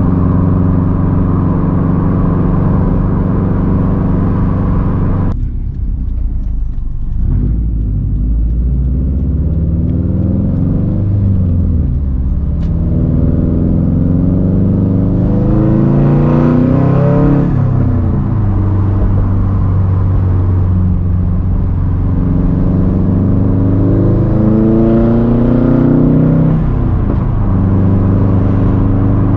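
2013 Subaru WRX STI's turbocharged 2.5-litre flat-four running through a titanium Tomei Expreme Ti exhaust and a catless downpipe while driving. It holds a steady drone, the high end drops away about five seconds in as the throttle closes, then it pulls up through the revs three times, falling back between pulls.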